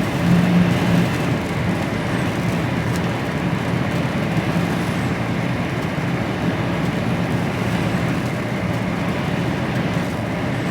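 HGV lorry cab on the move: the diesel engine's steady low drone and road noise.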